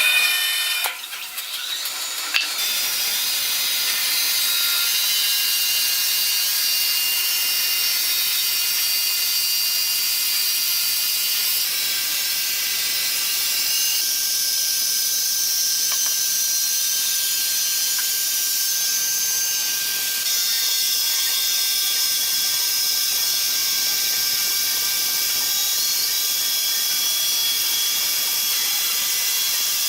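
Sawmill power saw running with a steady, high-pitched whine made of several tones, after a few knocks in the first couple of seconds.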